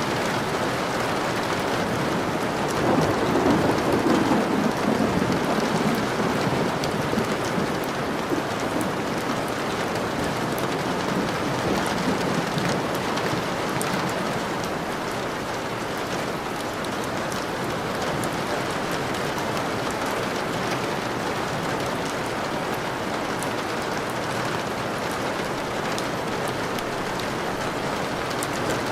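Steady rain falling on a surface, with a low rumble of thunder swelling about three seconds in and fading away over the next few seconds.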